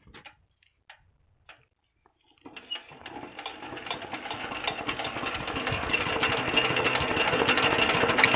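A few faint clicks, then from about two and a half seconds in the rapid clatter of a 16 HP Petter-type diesel engine starting up, growing steadily louder as it runs up.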